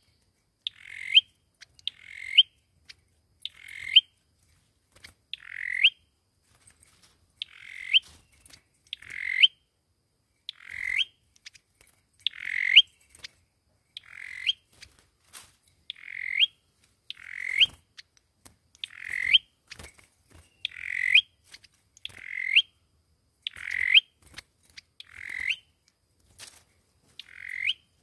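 Sâu dừa bird giving the same short call over and over, about once every second and a half, each note rising sharply at its end. It is a lure call of the kind played to draw sâu dừa to a trap.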